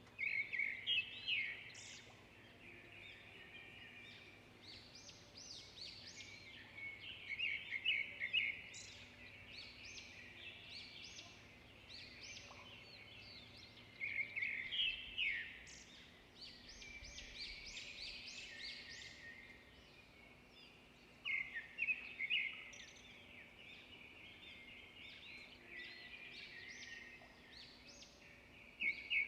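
Wild birds singing: one bird repeats a loud, quick song phrase about every seven seconds, over continuous lighter chirping and trills from others.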